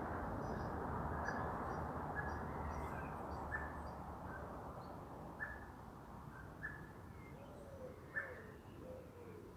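Small birds chirping in the background: short chirps repeated every half second to second, over a steady background rumble that slowly fades. A few faint, low, gliding calls come in the second half.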